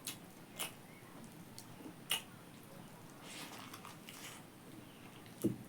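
A person chewing and biting pork, with a few sharp mouth clicks and smacks near the start, another at about two seconds and one near the end, and a softer stretch of chewing noise in between.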